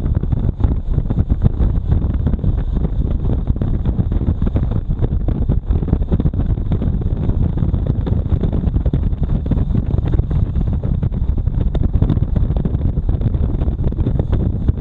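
Wind buffeting a motorcycle-mounted camera's microphone on a moving motorcycle, a steady low rumble with engine and road noise underneath.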